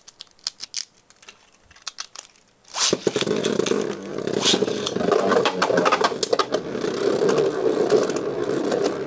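A few light plastic clicks, then about three seconds in Beyblade Burst spinning tops are launched into a plastic stadium and spin, a dense whirring and scraping with many small knocks as they rub and hit each other and the stadium.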